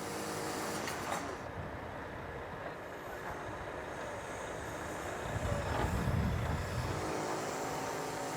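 A straw lorry's engine running steadily, powering the lorry's own loader crane as its grab lifts straw. It swells to a louder low rumble for a second or two about five seconds in.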